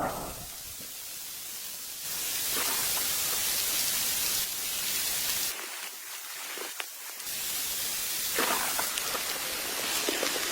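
Rain falling, a steady hiss that jumps up and down in level abruptly a few times, with a faint click a little past the middle.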